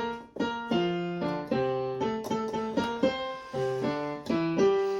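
Piano playing a bouncy accompaniment of chords over bass notes, a new note or chord struck every few tenths of a second, with no singing.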